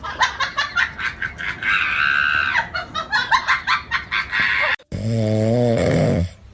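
Rapid, repeated animal calls, fowl-like squawks with a longer held cry about two seconds in. They cut off suddenly near five seconds, and a lower, wavering call follows.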